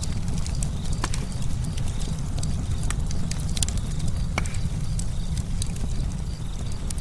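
Campfire burning with irregular sharp crackles and pops over a steady low roar of the flames.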